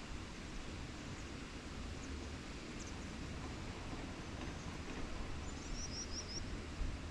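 Outdoor ambience with a steady low rumble, and a bird giving a quick run of about five high chirps a little past halfway through.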